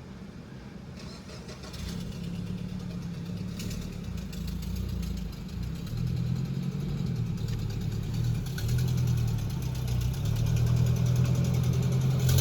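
A motor vehicle's engine running close by at a low, steady pitch, growing louder over the stretch.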